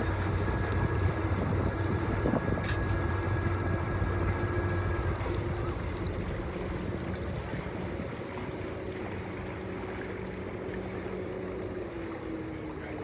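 Ferry's engines running under way over the rush of water and wind on the microphone; the deep low hum fades out about halfway through, and a steadier tone sags slightly near the end.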